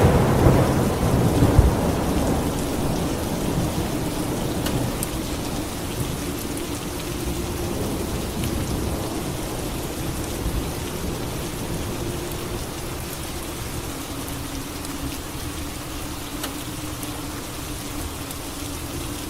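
Steady rain with a roll of thunder that is loudest in the first couple of seconds, then rumbles away and fades.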